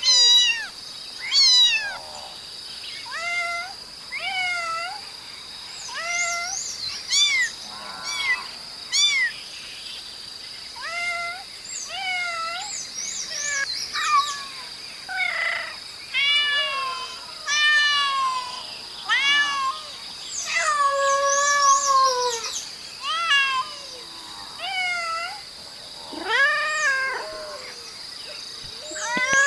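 Domestic cat meowing over and over, short rising-and-falling meows coming about once or twice a second, with a longer drawn-out meow about twenty seconds in. A steady high-pitched hiss runs underneath.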